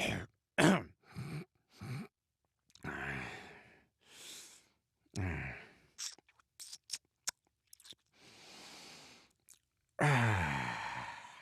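A man's voice (Peter Griffin) making a string of wordless "dad noises": short grunts and groans, a run of quick mouth clicks, and a breathy exhale. Near the end comes a long groan that falls away.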